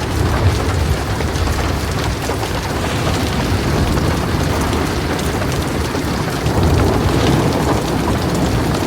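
Heavy rain falling steadily in a thunderstorm, with a deep low rumble under the hiss of the rain and a slight swell about seven seconds in.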